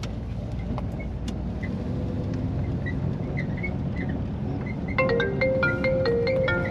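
A classic car's engine and road noise heard from inside while driving, a steady low rumble with a few faint high chirps. About five seconds in, background music with marimba-like mallet notes comes in over it.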